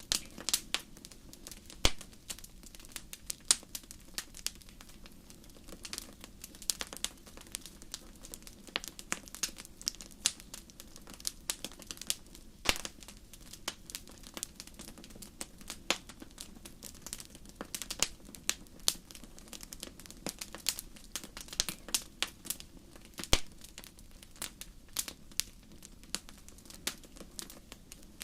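Campfire crackling: irregular sharp pops and snaps several times a second over a faint, steady low rush.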